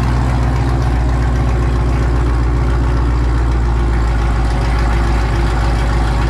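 Chevrolet Camaro SS 1LE's 6.2-litre V8 idling steadily through its quad exhaust, on a cold start after two weeks sitting with the battery disconnected.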